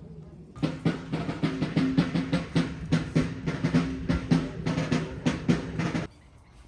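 Snare drum playing rapid strokes and rolls for about five seconds, then cutting off abruptly.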